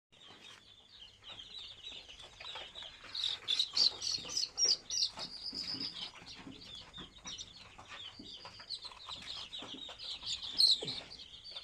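A crowd of deshi chicken chicks peeping continuously in short, high, overlapping chirps, with louder bursts of peeping around four seconds in and again near the end.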